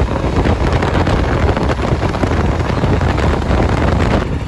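Wind buffeting the microphone over a motorcycle running at road speed, steady and loud.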